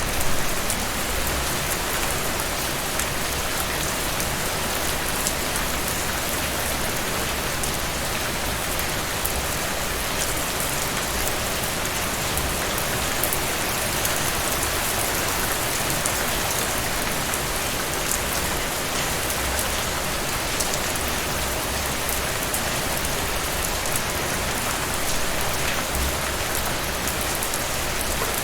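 Steady heavy rain falling on surfaces, a dense even patter with individual drops ticking through it.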